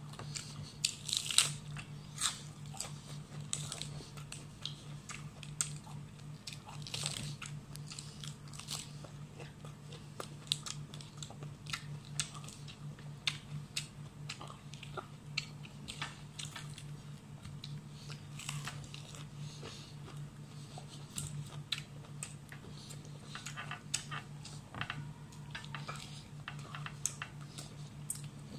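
Close-up eating sounds: crisp bites, crunching and chewing of raw leafy greens, with the loudest crunches about a second in. A steady low hum runs underneath.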